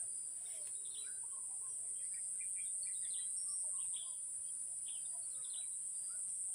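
A steady, high-pitched insect drone, with many short bird chirps scattered over it.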